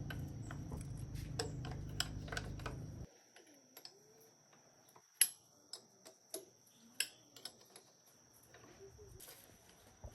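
Scattered light clicks and taps over a low steady hum, which cuts off abruptly about three seconds in; sparse clicks continue after it.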